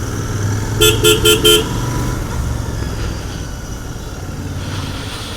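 A vehicle horn tooting four quick times about a second in, over the steady low running of a Royal Enfield Continental GT 650's parallel-twin engine on its stock exhaust.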